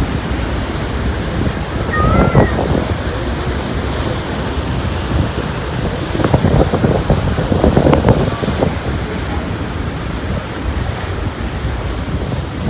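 Wind buffeting the microphone over a steady rush of sea water alongside a moored ferry, with a few brief distant calls about two seconds in and again past the middle.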